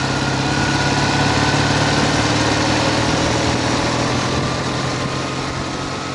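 Ural sidecar motorcycle's flat-twin engine running steadily under way, a constant low drone under a broad noisy rush.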